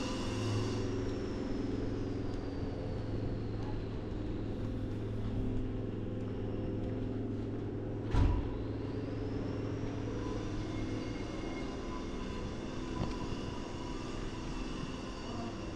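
Steady hum of an engine running, with a faint high whine that slowly drops in pitch and later climbs again. A single sharp thump comes about halfway through.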